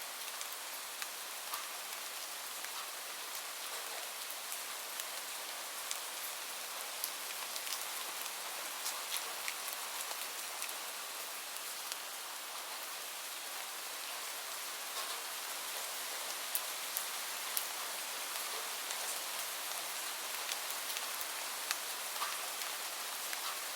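Steady rain falling on a surface: an even hiss with many individual drops ticking sharply through it.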